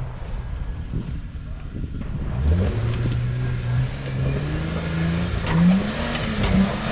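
Jeep Wrangler's engine revving under load as it crawls up a rock step on a steep trail. The pitch rises about two and a half seconds in, holds, then climbs again briefly near the end.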